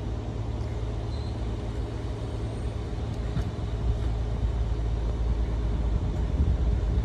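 Steady low engine hum of a train, growing slightly louder.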